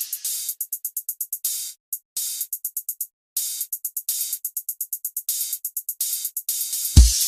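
Electronic dance remix in a breakdown: only rapid drum-machine hi-hat ticks, broken by two short gaps, with the deep kick drum coming back in near the end.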